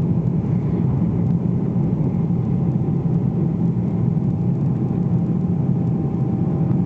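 Steady in-flight cabin noise of a Boeing 777-300ER from a window seat: the drone of its GE90 jet engines and the airflow, with a low hum running under it.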